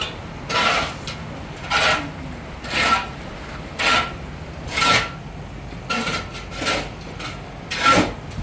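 Rhythmic scraping or rasping strokes, about one a second, eight in all, each short and harsh.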